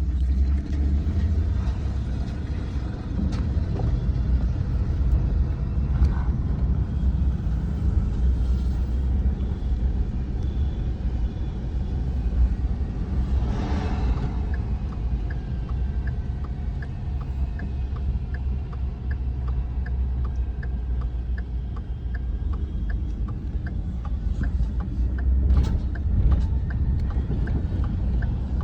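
A truck being driven, with a steady low engine and road rumble. From about halfway through, a regular ticking comes about twice a second.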